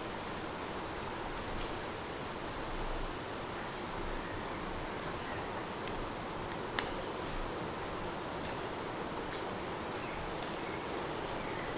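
Steady rain ambience with small birds chirping, short high chirps coming again and again, and a couple of sharp ticks.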